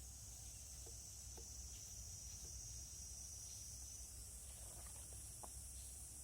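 Faint steady high-pitched insect chorus over a low rumble, with a few faint small ticks.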